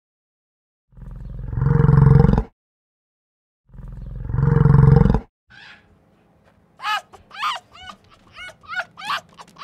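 A yak's long, deep bellow, twice, each building up in loudness and then cutting off. Then, about seven seconds in, a red fox gives a rapid series of short high yelping calls, about three a second.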